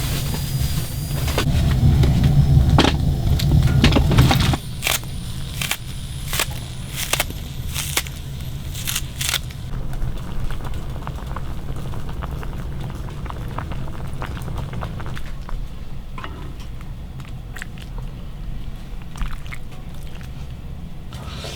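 Food cooking in a pan, with utensils clicking and knocking. A steady low rumble is loud for the first four or so seconds, then drops off suddenly, leaving scattered clicks and knocks.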